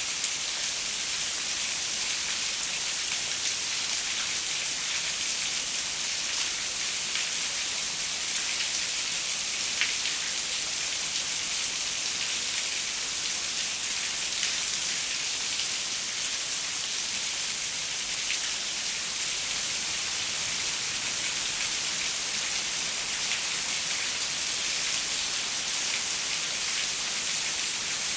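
Steady rain pattering on a window, an even hiss with small scattered drop taps.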